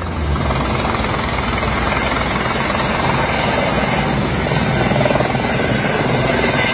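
Eurocopter H130 helicopter coming in to land, its rotor beating and turbine running steadily.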